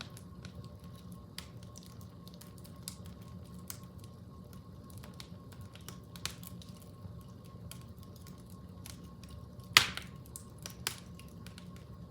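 Fire crackling: scattered small snaps and ticks over a low steady hum, with one loud pop about ten seconds in and a smaller one just after.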